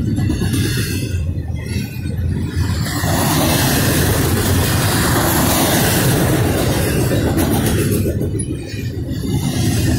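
Double-stack intermodal well cars of a freight train rolling past: a steady rumble of steel wheels on the rails. The rush grows brighter and fuller for a few seconds in the middle.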